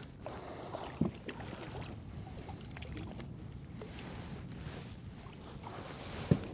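Quiet outdoor background of wind and water around a kayak, with a couple of short knocks about a second in and near the end.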